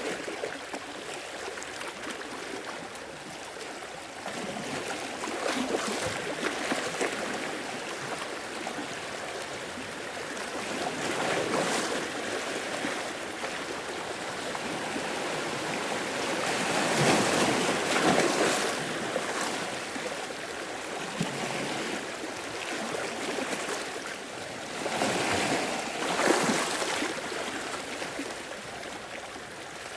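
Sea waves washing in, swelling in irregular surges every few seconds, loudest about two thirds of the way through.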